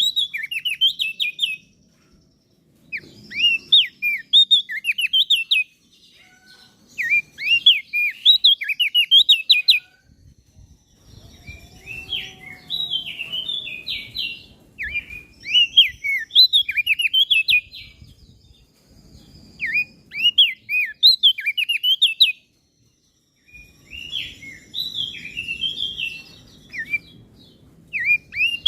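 Crested heleia (opior jambul) singing: repeated phrases of rapid, sharp chirping notes, each phrase a few seconds long with short pauses between.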